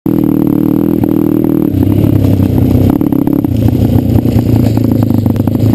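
Pit bike engine running with a steady note, then from about two seconds in going lower and rougher and uneven, with rattling clatter over it.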